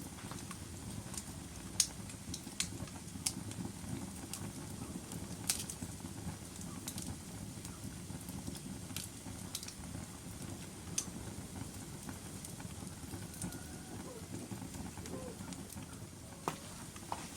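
Burning logs in a fireplace crackling: a steady low rumble of flame with irregular sharp pops and snaps, the loudest about two and five and a half seconds in.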